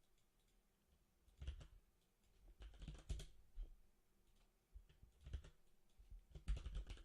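Computer keyboard typing in a few short, irregular bursts of keystrokes with pauses between, quiet.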